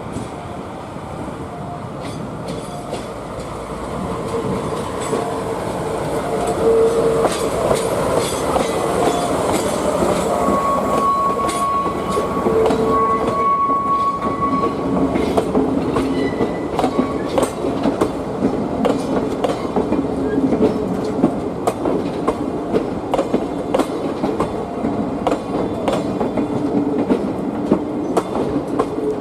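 DE11 diesel-hydraulic shunting locomotive moving a rake of passenger coaches, its engine growing louder over the first several seconds as it approaches. A high steady tone sounds for a few seconds near the middle, and wheels click over rail joints in quick succession through the second half.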